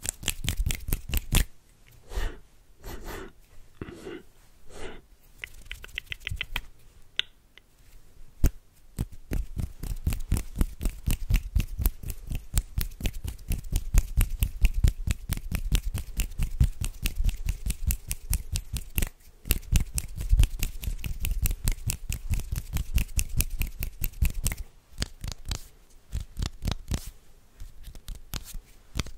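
Close-miked ASMR hand sounds: a few separate swishes at first, then from about eight seconds a fast, dense run of crackling, scratchy strokes, several a second.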